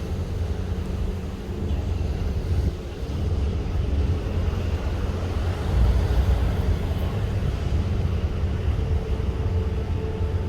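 Steady low rumble of wind and a ship underway at sea, with a faint hum entering near the end.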